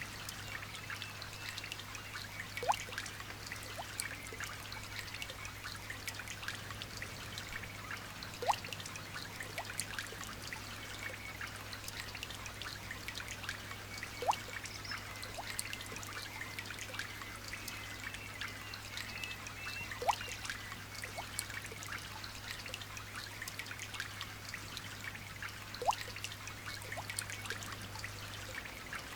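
Light rain dripping and trickling, a constant patter of small drops, with a louder single drop plinking about every six seconds.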